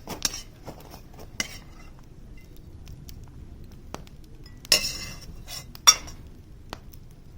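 Metal cookware and utensils clinking and knocking a few times at irregular intervals, loudest about two thirds of the way through.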